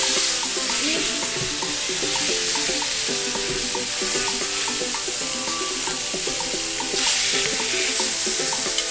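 Raw chicken breasts sizzling steadily as they fry in hot butter in a nonstick pan, the hiss swelling briefly about seven seconds in as they are moved about.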